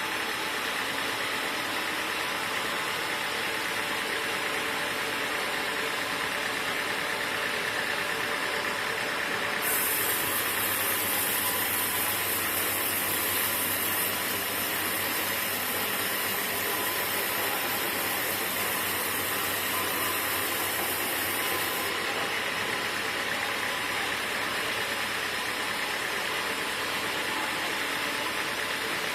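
Sawmill machinery running steadily. About ten seconds in, a high hiss and a low hum join it and carry on for about twelve seconds before dropping away.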